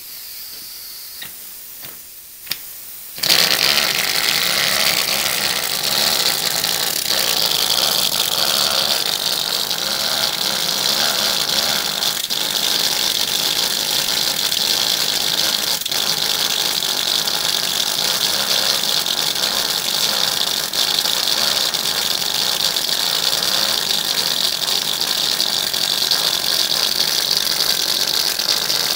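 Micro V8 engine running on compressed air: after a soft hiss and a couple of clicks, it starts suddenly about three seconds in and then runs steadily with a fast mechanical rattle and a strong air hiss.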